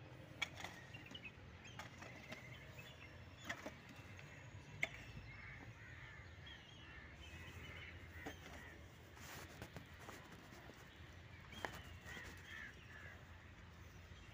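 Faint bird calls and chirps scattered through, with a few sharp clicks over a low steady background hum.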